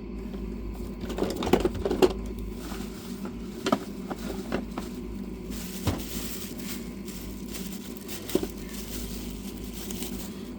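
Scattered light clinks and knocks of tools and car parts being handled, a cluster of them about a second in and then single ones every second or two, over a steady low hum.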